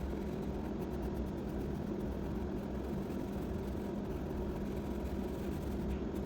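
Steady low mechanical hum with a constant background whir, unchanging throughout.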